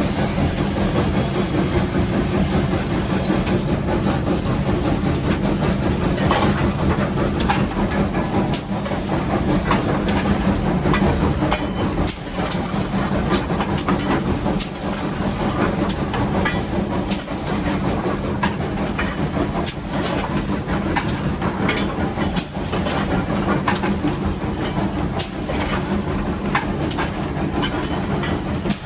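Nevada Northern No. 81 steam locomotive heard from inside the cab as it works up a grade: a steady, loud mix of steam hiss and running machinery with a low rumble. Scattered sharp clicks and knocks run through it.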